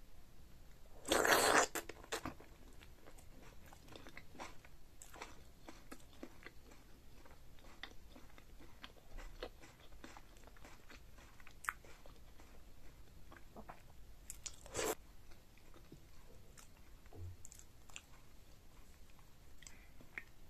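A person chewing food close to the microphone: a run of small wet clicks and smacks, with a louder crunch about a second in and another short one near the 15-second mark.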